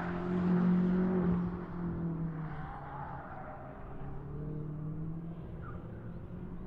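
BMW X6 M's twin-turbo V8 engine running with a steady note, loudest in the first second and a half, then easing off slightly lower and quieter as the throttle is lifted.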